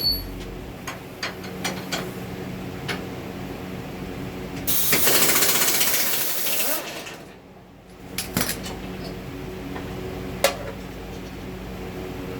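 Hand-tool work on a car's suspension: scattered clicks and clinks of metal over a steady hum. About five seconds in comes a loud hissing burst lasting about two seconds.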